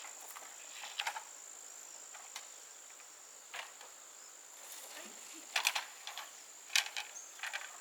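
Crickets giving a steady high-pitched trill, with scattered short clicks and knocks, a few louder ones a little after halfway.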